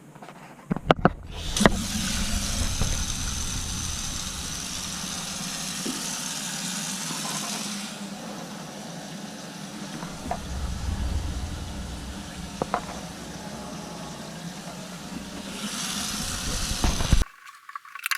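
Newly installed under-sink garbage disposal running with tap water flowing into it: a steady hum under the rush of water. A few clicks about a second in, and it stops abruptly near the end.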